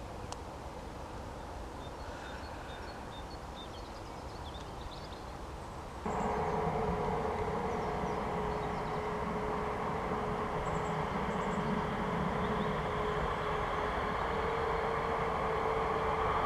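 Jet airliner engines whining with several steady tones, coming in abruptly about six seconds in and growing louder toward the end. Before that there is only a faint outdoor rumble with a few small high chirps.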